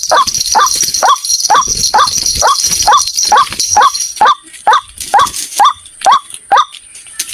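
White-breasted waterhen (ruak-ruak) calling, a monotonous series of short kwak notes at about two a second, from a trapping lure recording. A high steady buzz sounds behind the first four seconds and then stops.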